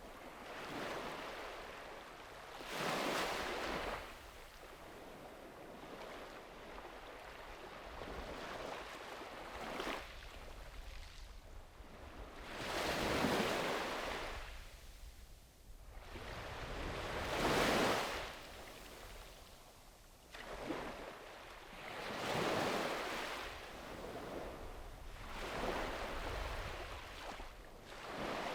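Sea waves breaking on a beach: the surf swells and fades every few seconds, with the strongest surges a little before and after the middle.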